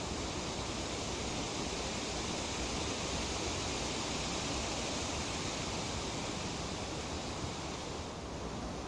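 Breeze through tree leaves: a steady rustling hiss that swells slightly midway and eases a little near the end.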